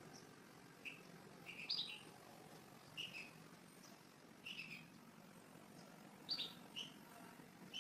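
Faint chirping of a small bird: short high notes in twos and threes, repeated about every second, over a faint steady hiss.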